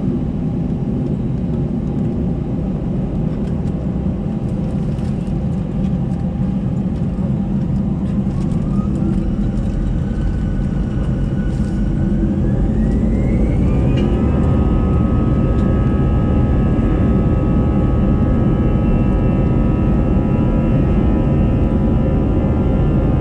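Airbus A320-214's CFM56-5B engines spooling up to takeoff thrust, heard from inside the cabin. A whine rises from about eight seconds in and settles into several steady tones over a heavy rumble that grows a little louder.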